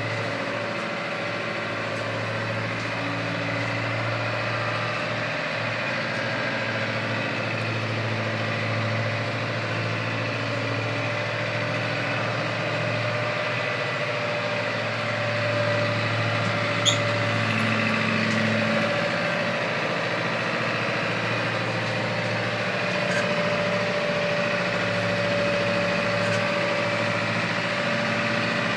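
A steady, low engine-like hum runs on evenly, with one sharp click about 17 seconds in.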